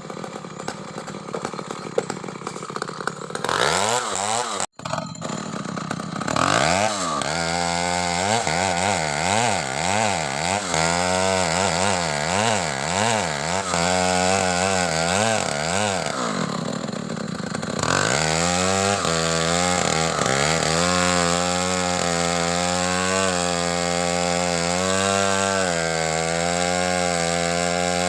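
Two-stroke Stihl chainsaw working a coconut palm trunk into beams: the engine revs up and down over and over, about once a second, then from about two-thirds of the way through holds a steady high speed with small dips as it cuts.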